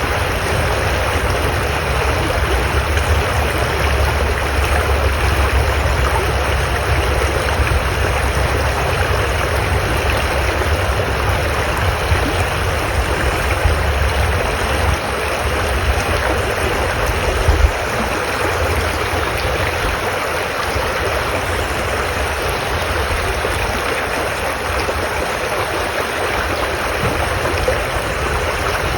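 Stream water rushing steadily, with a low rumble underneath that is strongest in the first half and a single knock about seventeen seconds in.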